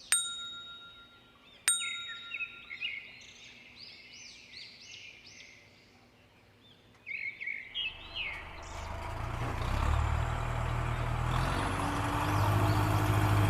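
Two sharp ringing metallic dings near the start, followed by bird-like chirping; from about eight seconds in, a steady mechanical hum with noise rises in and holds.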